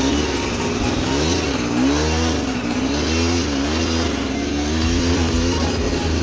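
A motor vehicle's engine revving up and falling back again and again, the throttle opened and closed in quick swells, over a steady low running note.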